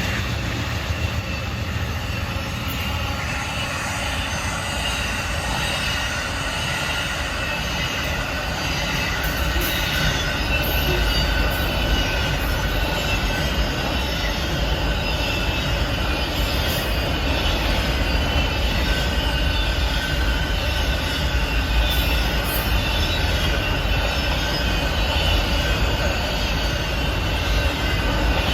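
Amtrak Auto Train cars rolling past: a steady rumble of steel wheels on rail, with high-pitched wheel squeal ringing over it.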